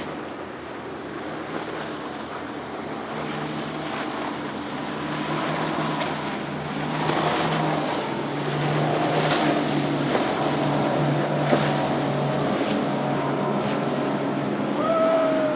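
Motorboat engine running steadily as a boat passes, with wind and water noise. A short high tone that bends downward sounds near the end.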